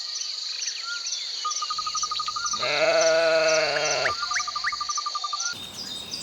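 A sheep bleats once, a wavering call of about a second and a half near the middle, over steady high chirping and trilling in the background.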